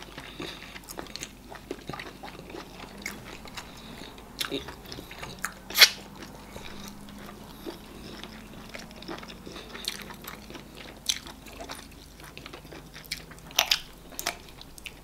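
Two people eating eba and okra soup with assorted meat, close to the microphone: chewing and biting with mouth clicks and smacks, scattered sharp clicks throughout, the loudest about six seconds in.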